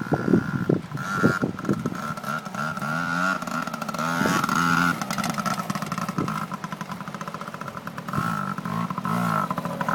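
Yamaha PW80 dirt bike's small two-stroke single-cylinder engine running and being revved as it is ridden, its pitch rising and falling several times.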